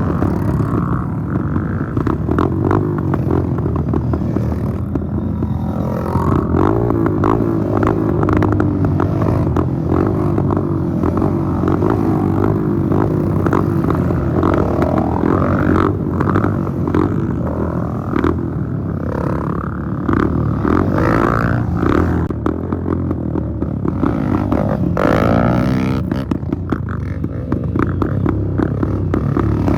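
Dirt-bike engines running and revving, the pitch rising and falling over and over, with scattered clattering.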